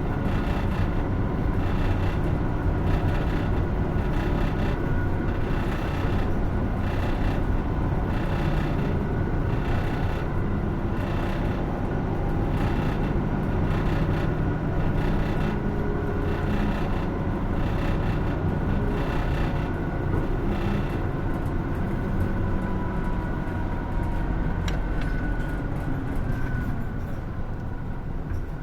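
Cabin sound of a 2016 Hino Rainbow II (SKG-KR290J1) diesel route bus under way: steady engine and road noise. For most of the stretch a rushing noise pulses about once a second, and the sound eases off a little near the end.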